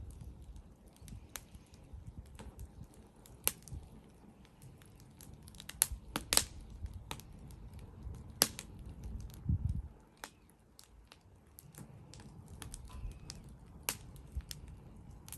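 Wood fire crackling, with sharp pops coming at irregular moments, the loudest about six, eight and fourteen seconds in, over a low rumble that eases off about ten seconds in.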